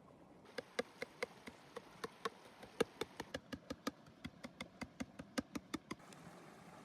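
A quick, even run of about two dozen sharp wooden knocks, roughly four a second, starting about half a second in and stopping about six seconds in.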